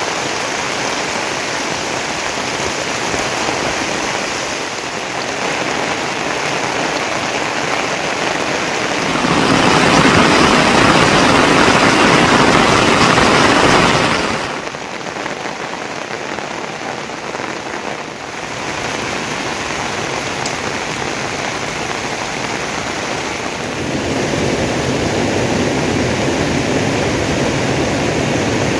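Heavy rain falling steadily: a dense, even hiss with no single drops standing out. It grows louder about nine seconds in and drops back about five seconds later.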